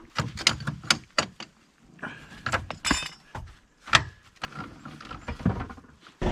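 An irregular series of sharp knocks and clinks, about a dozen over several seconds, like hard objects being handled and set down. A loud steady noise cuts in suddenly at the very end.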